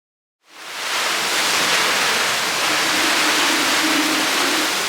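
Heavy storm rain pouring down, a dense steady hiss that starts suddenly about half a second in.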